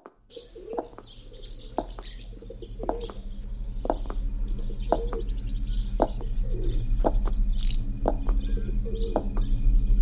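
Birds chirping, with lower cooing calls among the chirps, over a steady low hum; the birdsong swells over the first few seconds.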